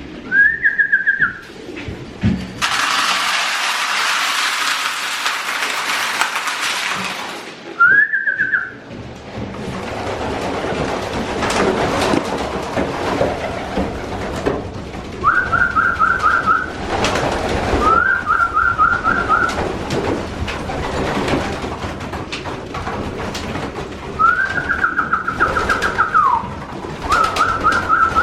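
Racing pigeons in a loft: several runs of short, rapidly pulsed high calls, each lasting about a second, over wing flaps, knocks and shuffling. A steady hiss runs for about five seconds near the start.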